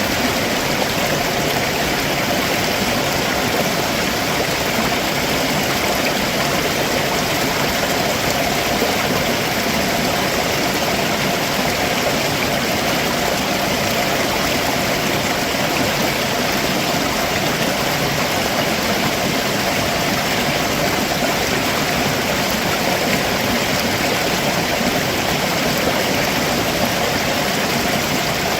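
Stream water rushing steadily over rocks below a waterfall, a constant even wash of flowing water.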